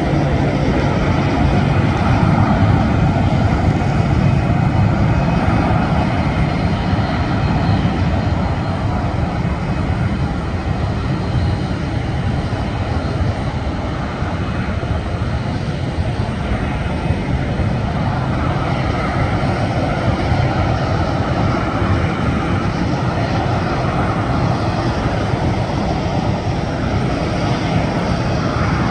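Jet engines of a Boeing 737 running loud and steady, a heavy low roar that eases slightly midway and builds again later on.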